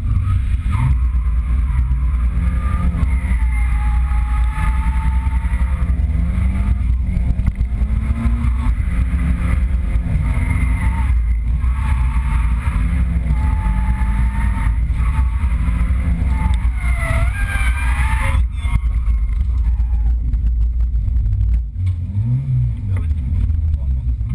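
Nissan 200SX drift car's engine, heard from inside the cabin, revving up and falling back again and again through a drift run. It eases off about three seconds before the end.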